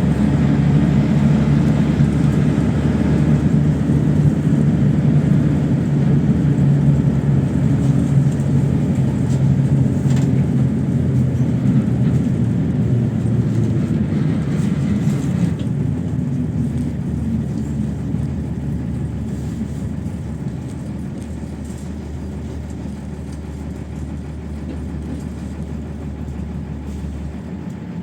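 PAZ-32054 bus engine and road noise heard from inside the cabin: a steady low drone, loud at first, which eases off about halfway through and grows gradually quieter to the end.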